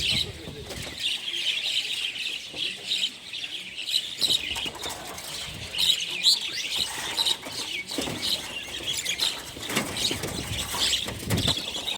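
Many small birds chirping at once in a dense, continuous chorus of short, high notes, with a few lower rustling noises in the second half.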